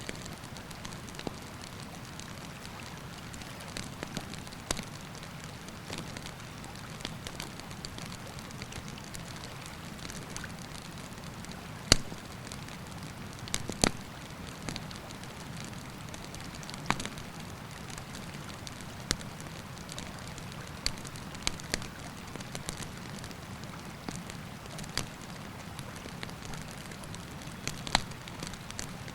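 Wood campfire crackling, with irregular sharp pops, the loudest about twelve seconds in, over the steady rush of a river.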